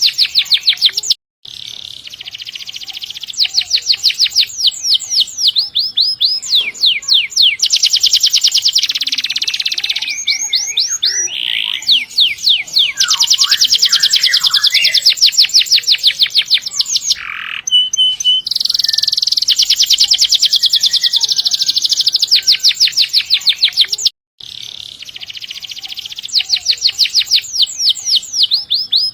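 Domestic canary singing long rolled trills: fast runs of repeated high notes, one roll after another with short breaks between them. The sound drops out for an instant twice, about a second in and about five seconds before the end.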